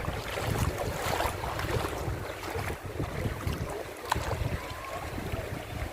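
Wind buffeting the microphone in gusts over the wash of sea waves at the shore.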